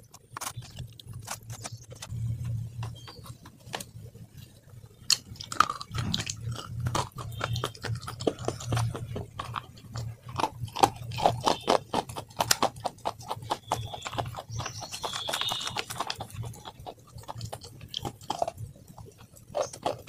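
Close-miked mouth sounds of a person biting and chewing food: irregular wet clicks and smacks with many quick crackles, over a low steady hum.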